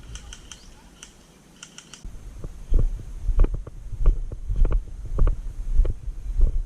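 Irregular heavy thuds from a body-worn camera as the player moves, footsteps and gear knocking against the mic, beginning about two and a half seconds in. Before that come a few faint quick clicks.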